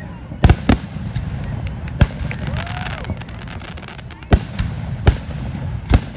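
Fireworks going off: about six sharp bangs at uneven intervals, two close together near the start and the others spread over the next few seconds.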